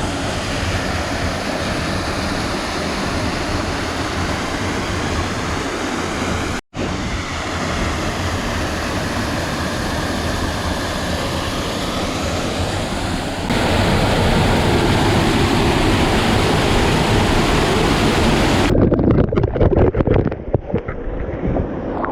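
Waterfall rushing, loud and steady, heard across several short clips that cut abruptly. In the last few seconds the sound turns muffled and uneven.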